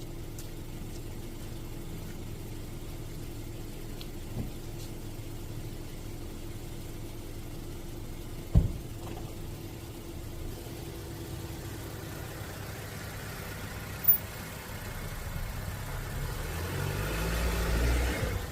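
Car engine idling, growing louder with a low rumble near the end as the car is driven slowly onto freshly laid cold-patch asphalt to compact it. Two sharp knocks, about halfway through and again a few seconds later.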